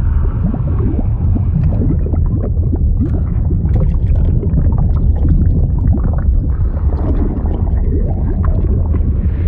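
Liquid sound effect of bubbling and gurgling over a deep, steady rumble, with many short rising blips throughout.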